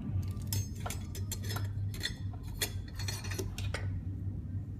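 Steel and friction clutch plates of a Hydramatic gearbox's forward clutch clinking as they are handled and fitted into the clutch drum: a run of irregular light metallic clinks. A steady low hum runs underneath.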